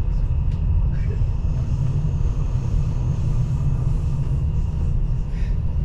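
Passenger train running at speed, heard from inside the carriage: a steady low rumble of wheels and running gear.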